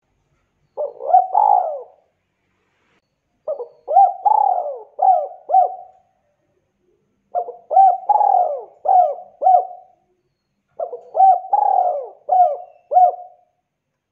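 Spotted dove cooing: four phrases of coo notes, the first short and the others each a run of four or five notes, roughly every three and a half seconds.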